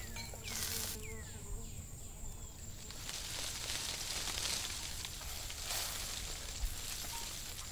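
Food frying in oil in a clay pot over a charcoal grill, a soft sizzle that swells and fades. A few short falling bird chirps come in the first second or so, over a steady high insect whine.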